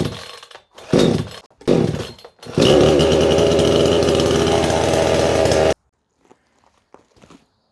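Two-stroke engine chainsaw, stored with old fuel left in it, being pull-started: three short bursts with the starter pulls, then the engine catches a little over two and a half seconds in and runs steadily for about three seconds before cutting off suddenly.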